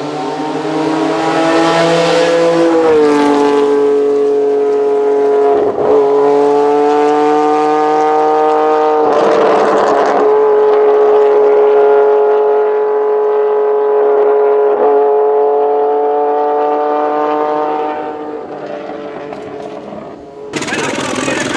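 A historic racing car's engine running at high revs, its high pitch dipping slightly early on, then holding nearly steady with two short breaks before it fades out near the end.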